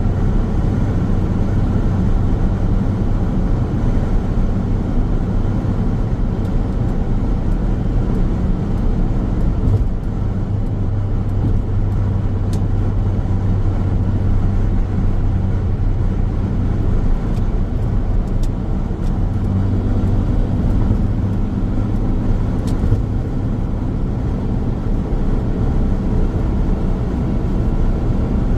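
A car driving along a road at a steady speed: a continuous low rumble of engine and tyres on the pavement, with a steady engine hum that shifts a little in pitch twice.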